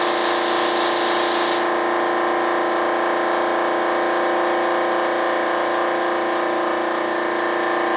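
Spray gun hissing as epoxy primer is sprayed, cutting off suddenly about a second and a half in, over a steady machine hum made of several fixed tones that runs throughout.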